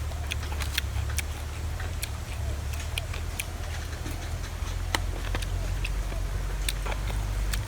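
Scattered light clicks and taps, a dozen or so at uneven intervals, over a steady low rumble.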